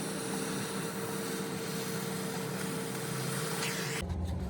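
A machine runs steadily in a workshop with a constant hum and a held tone, then cuts abruptly to a deeper, lower rumble near the end.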